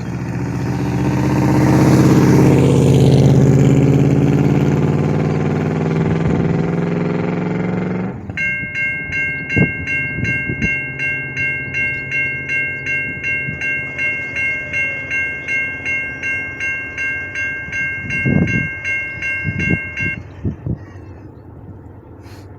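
Locomotive horn sounding one long blast that swells and then holds for about eight seconds before cutting off. A railroad crossing warning bell then dings steadily, about three times a second, stopping about twenty seconds in; the crossing signals have been set off by an approaching train.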